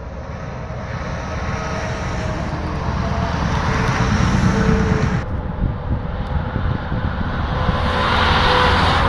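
Trucks driving past on a road: engine hum and tyre noise growing louder, dropping off sharply about five seconds in, then building again near the end.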